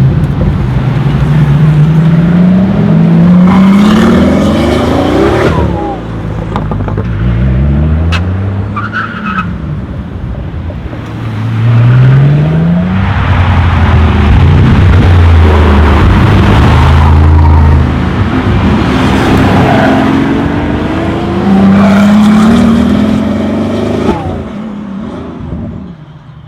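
Supercar engines accelerating hard and revving, the pitch climbing through the gears again and again as cars drive past, with short drops in level between runs.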